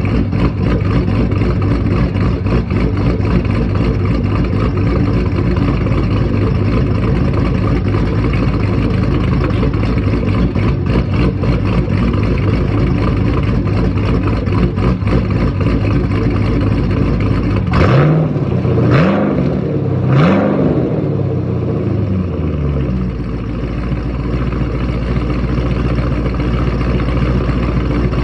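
Twin-turbocharged 5th-gen Chevrolet Camaro SS V8 idling while still warming up after a cold start. About eighteen seconds in, it is revved three times in quick succession, then it settles back to a steady idle.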